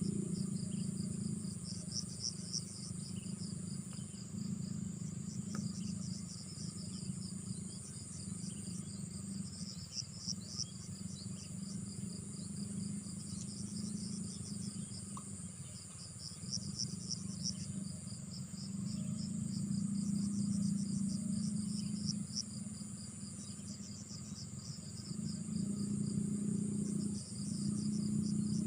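Insects such as crickets chirping in a continuous chorus of rapid, pulsing trills. Beneath them a low droning hum swells and fades several times, loudest around two-thirds of the way in and again near the end.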